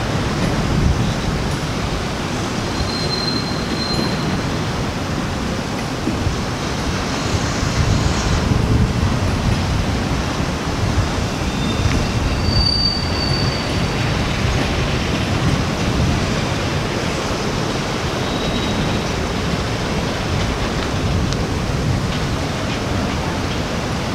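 Freight train of autorack cars rolling past at steady speed, a continuous rumble of steel wheels on rail. Short high-pitched wheel squeals come three times, the clearest about halfway through.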